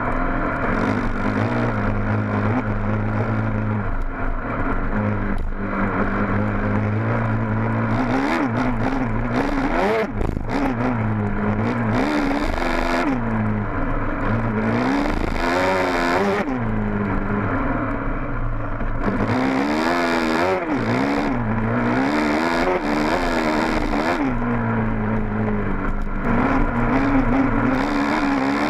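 Honda dirt bike engine running, its revs rising and falling over and over as the throttle is worked, with several bursts of rushing noise along the way.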